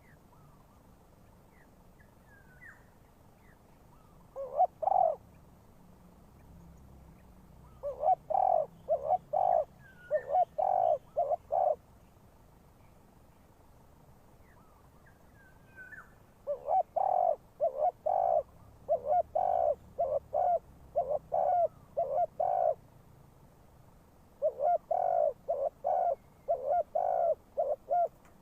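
Spotted dove cooing: one call, then three long runs of repeated low coos with short pauses between. Faint high chirps of small birds come in between the runs.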